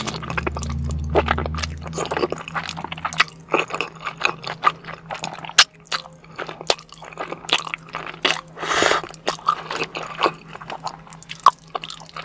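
Close-miked eating: wet, squishy chewing with irregular crisp crunches and smacks.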